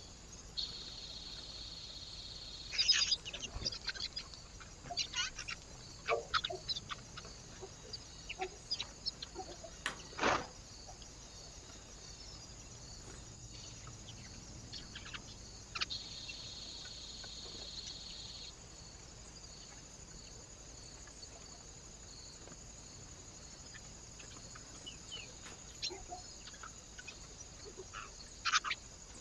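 Birds at a feeder: a scatter of short, sharp high calls and clicks, thickest in the first third and loudest about ten seconds in, with a few more near the end. A steady high buzz sounds for a couple of seconds near the start and again a little past the middle.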